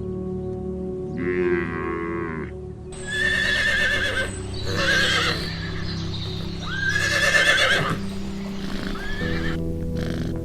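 Whinnying calls of an equine animal with a shaking, wavering pitch, two long ones about three and seven seconds in, after a shorter animal call near the start, all over steady background music.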